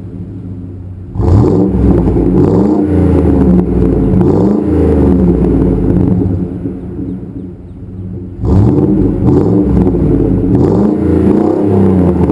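Ford Expedition V8 revved through a Magnaflow exhaust with high-flow cats, the rear cats deleted and a straight-through muffler. It idles briefly, then gives a run of quick rev blips about a second in, drops back toward idle, and revs again in a second run near the end.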